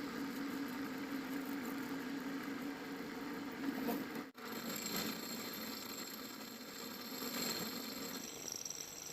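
A workshop power tool's electric motor running steadily with a low hum. About four seconds in the sound drops out for an instant and comes back with a thinner, higher whine.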